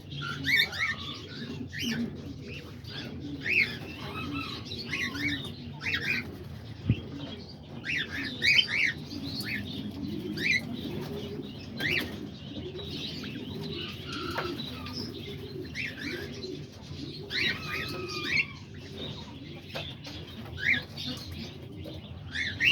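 Aviary birds calling: many short, high chirps from small birds, scattered throughout, over a continuous low cooing of doves.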